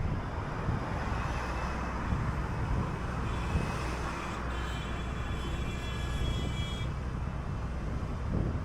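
City bus running along the street, with a steady engine rumble and road noise. From about three seconds in, a high-pitched whine rises over it for a few seconds, then stops.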